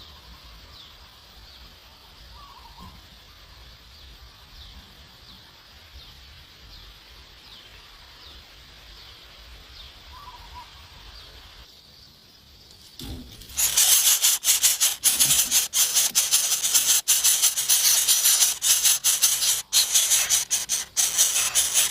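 Quiet outdoor background with faint, scattered high chirps, then, about 13 seconds in, a loud dense rattling hiss starts suddenly, like a shaker, and runs on.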